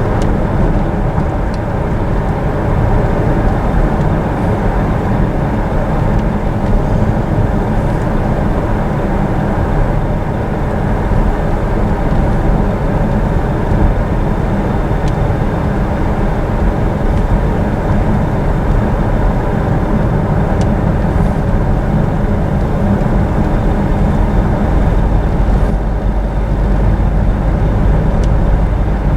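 Steady road and engine noise heard inside a moving vehicle's cabin.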